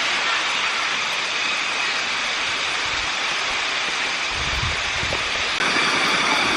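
Steady rush of water flowing down a cascading waterfall. There is a brief low rumble about two-thirds through.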